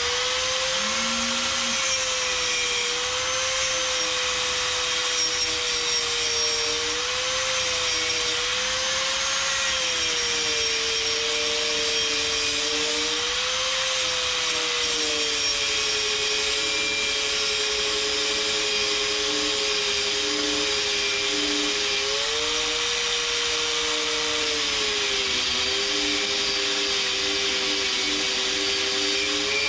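A small motor-driven tool running steadily with a whining hum. Its pitch sags and recovers now and then, as if under changing load.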